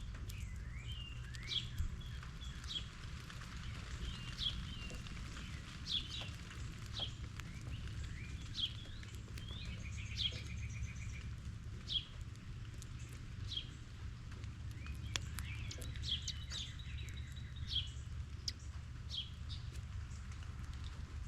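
Songbirds chirping: short, sharp calls repeated every second or two, with a few buzzier notes among them, over a steady low rumble.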